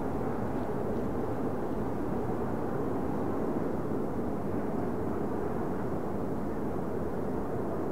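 Steady rumble of a BNSF intermodal freight train moving on the Tehachapi Loop, an even low-to-mid noise with no distinct tones or knocks.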